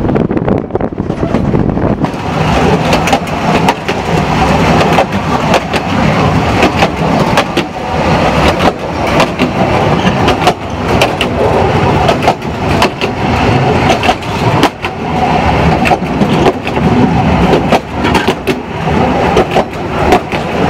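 Narrow-gauge railway coach running along the track, heard from its open end balcony: wheels clattering over the rails with many irregular clicks and knocks over a steady rumble. Wind buffets the microphone in the first couple of seconds.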